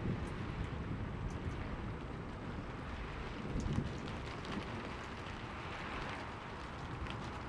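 Steady rain falling, an even hiss with scattered drop ticks, as the low rumble of a thunderclap dies away at the start.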